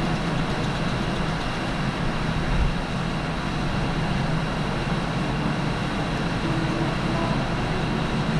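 Steady rumble and hiss of a large car ferry under way, with a constant low engine hum.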